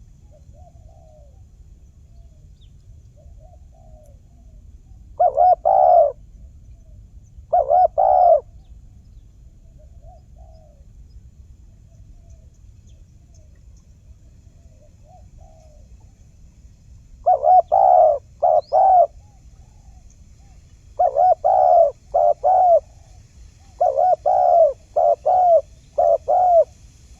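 Spotted doves cooing: loud phrases of two to four low coos come at intervals, with fainter coos between them.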